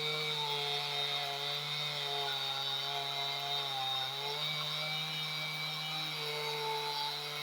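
Chainsaw running steadily in a chainsaw mill as it rips a log lengthwise into boards. Its engine pitch sags briefly about four seconds in, then picks back up.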